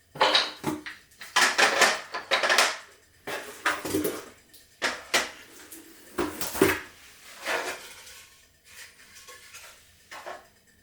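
Dishes and utensils being handled: a run of clinks and clatters, some with a short metallic ring, thinning out after about eight seconds.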